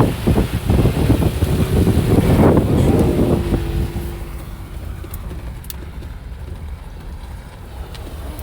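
Off-road vehicle driving on a dirt trail, a loud rough rumble for the first three to four seconds that then drops to a quieter steady rumble.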